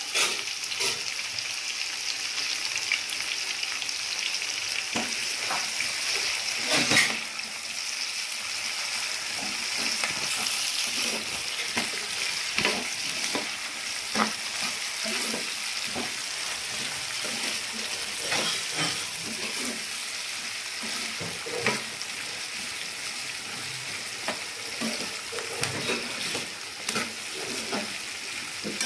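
Chopped onions and green chillies sizzling in hot oil in a frying pan, with a spatula stirring them and clicking against the pan, and one louder knock about seven seconds in.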